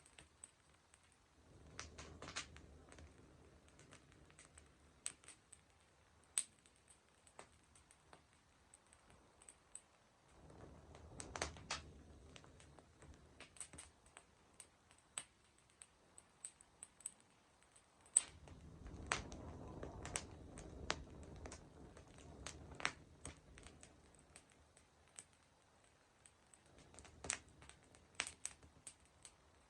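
Wood fire crackling faintly, with sharp pops and snaps scattered throughout and a low rushing sound that swells up a few times.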